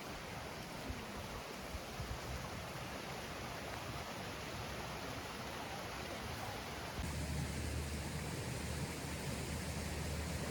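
Steady rain falling on the forest, an even hiss with a few faint drips and taps. About seven seconds in the sound becomes fuller, with a low steady rumble underneath.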